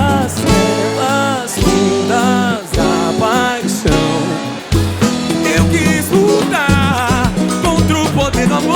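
Pagode samba band playing live: cavaquinho, acoustic guitar, drum kit, pandeiro, tantan and surdo under a melodic lead that slides and bends in pitch between sung lines.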